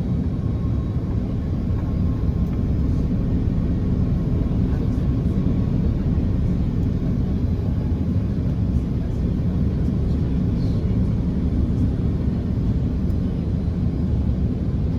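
Steady, low cabin drone inside an Airbus A330-300 airliner: engine and airflow noise with no changes.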